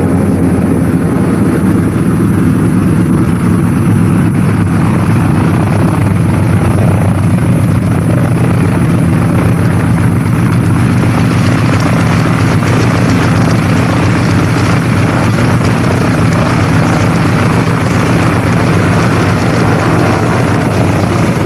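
A loud, steady engine drone with a constant low pitch, and more hiss joining in about halfway through.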